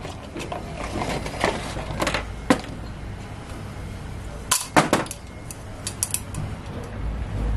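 Scattered clinks and knocks of hard objects being handled, with a loudest pair of knocks about four and a half seconds in and lighter clicks after.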